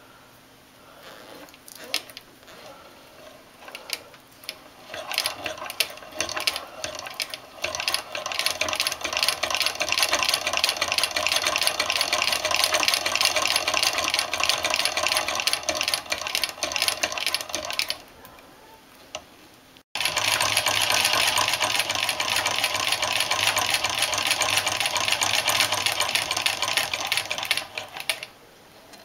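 Restored 1870 American Buttonhole, Overseam and Sewing Machine Co. sewing machine stitching fabric: a fast, even mechanical clatter. It builds from a few slow clicks, runs steadily, stops about eighteen seconds in, starts again abruptly a couple of seconds later and stops near the end.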